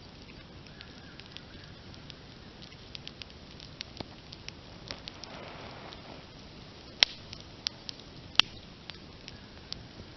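Open wood campfire burning: a steady low hiss with scattered crackles and snaps, and two sharp loud pops about seven and eight and a half seconds in.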